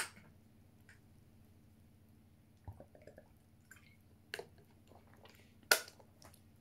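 Quiet room with a few scattered soft clicks and taps, the loudest near the end.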